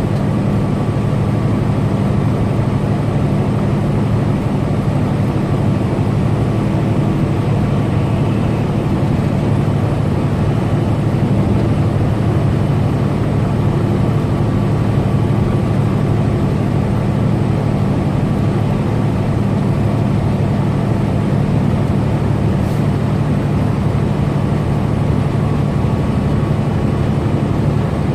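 Semi truck driving steadily on the interstate: a constant drone of engine and road noise with no change in level.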